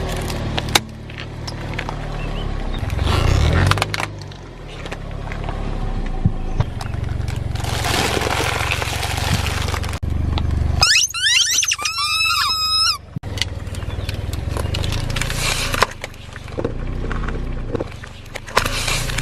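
A car's engine running as its tyres roll over objects, crushing them with cracks, crunches and snapping clicks. About eleven seconds in there is a wavering high squeak lasting about two seconds.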